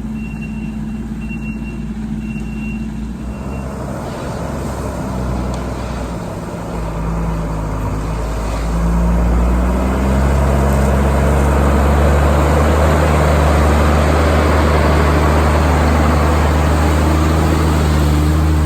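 Diesel engine of a dump truck or heavy machine running, with a backup alarm beeping steadily for the first three seconds. The engine then revs up, growing louder around the halfway point and holding at high revs, with a rushing noise over it.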